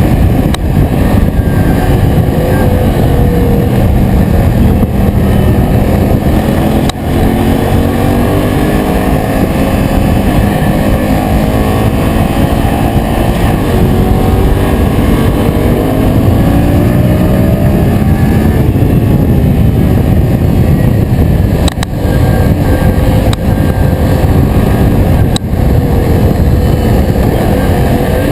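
Yamaha MT-07's parallel-twin engine running under way, loud and continuous, its pitch rising and falling with the throttle, with a few brief dips in level.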